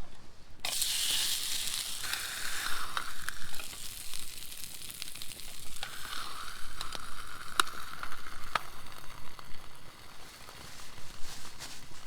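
Food sizzling in a hot pan, a steady hiss with scattered pops and ticks, starting abruptly about a second in.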